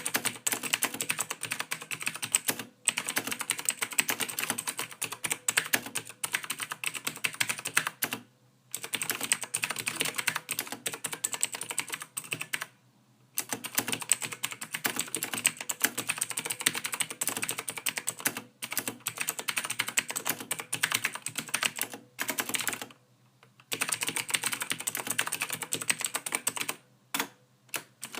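Rapid, continuous typing on a computer keyboard, a dense run of key clicks broken by short pauses of a second or less, about four times.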